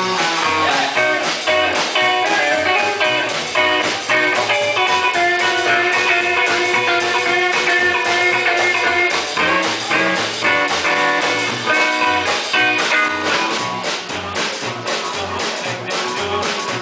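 Live band playing an instrumental break in a blues-rock song: guitar lead over bass and drums, with a steady beat.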